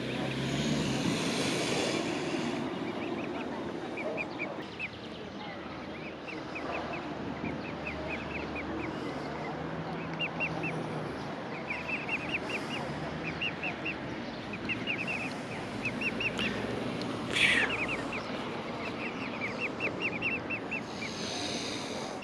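Mute swan cygnets giving runs of short, high, down-slurred peeping contact calls, several a second, with one louder call about three-quarters of the way through, over a steady background rush.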